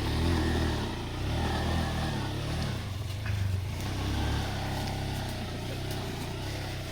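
Honda CB160F motorcycle's single-cylinder four-stroke engine running under way, its revs rising and falling repeatedly as the rider works the throttle.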